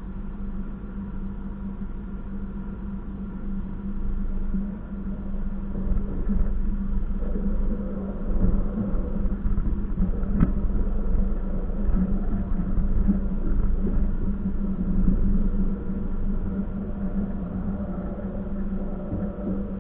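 Passenger train running, heard from inside the carriage: a steady low rumble with a constant hum, growing a little louder midway, and one sharp click about ten seconds in.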